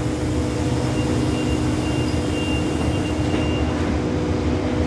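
Steady low rumble and hum of a diesel-hauled express train standing at the station platform, with its engine running.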